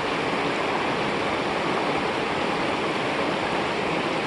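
Steady rush of a small mountain creek spilling down a cascade of rapids.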